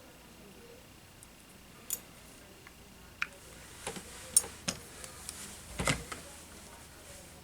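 Irregular sharp clicks and taps of small tools and parts being handled on a workbench during a drone frame repair, about eight in all and clustered in the second half.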